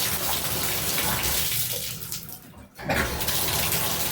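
Shower water running hard into a tub through a newly installed Delta valve. The flow cuts out briefly about two and a half seconds in, then comes back on.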